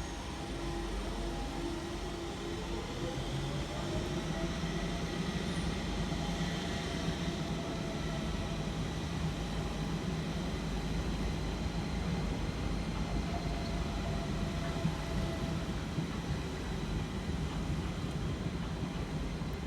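London Underground Central line train running in the station: a steady low rumble with a motor whine that rises in pitch over the first few seconds, then holds steady.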